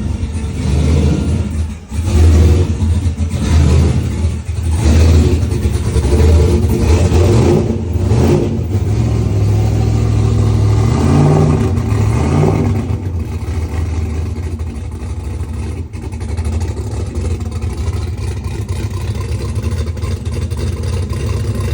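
Race car engine running through a new side-exit exhaust, revved in repeated throttle blips over the first half, then settling to a steady idle.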